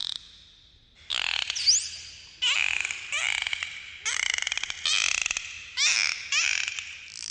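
Dolphins calling: about six bursts of buzzing, pulsed calls with whistles sliding up and down through them, and one sharp rising whistle about one and a half seconds in.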